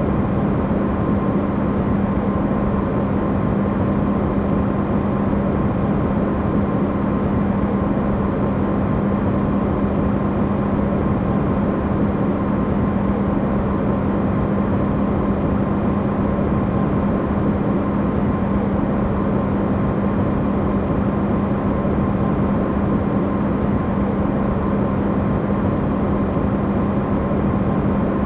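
Electrolux refrigerator running, recorded amplified: a steady, unchanging low hum with a fainter higher tone over an even rushing noise, used as white noise.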